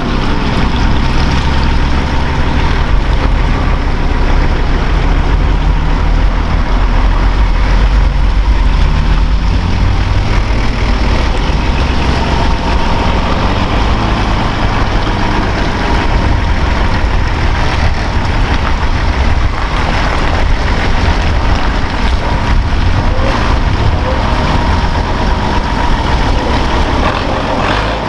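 Off-road truck engine running steadily, with the pitch rising briefly about six to ten seconds in as it picks up revs.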